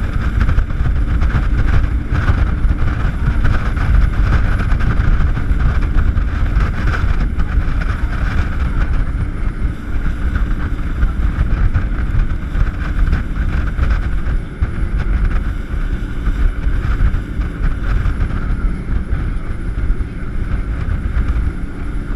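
Jet boat's engine running steadily under way, with wind buffeting the microphone.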